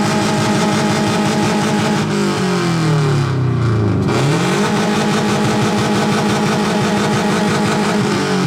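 Bug-eye Subaru Impreza's flat-four boxer engine revved hard through its exhaust and held steady at high revs. The revs fall away about two seconds in, climb again about four seconds in and hold, then drop off near the end.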